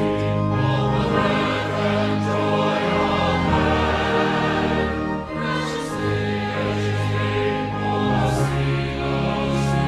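Choir singing sacred music, sustained and continuous.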